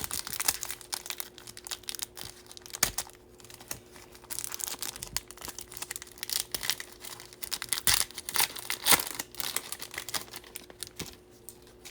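A baseball card pack's wrapper crinkling and trading cards being handled, with many irregular light clicks and snaps as the cards are slid and flicked.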